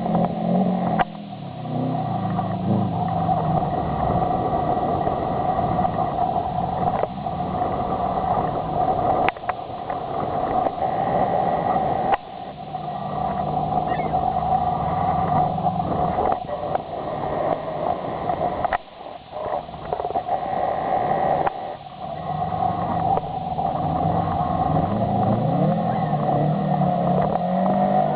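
Subaru WRX STI's turbocharged flat-four engine being driven hard, revving up and falling back again and again. The engine note is broken by several brief dips, about a second in, around seven, nine, twelve, nineteen and twenty-one seconds in.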